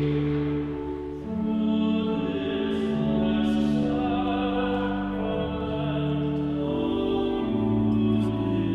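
Hymn music: singing over steady held chords that change every second or so.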